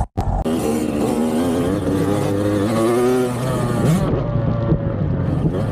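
Dirt bike engines revving, the pitch climbing and falling as the throttle works, with a brief cut-out in the sound just after the start.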